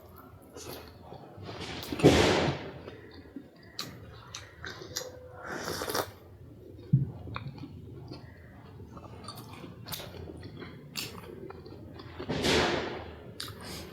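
Close-miked chewing and biting of snack food, with scattered small mouth clicks and two louder noisy moments, about two seconds in and near the end.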